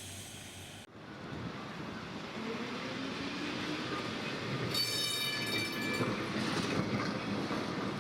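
A vintage electric tram running on street rails, with a rising motor whine and a brief high squeal from the wheels about five seconds in.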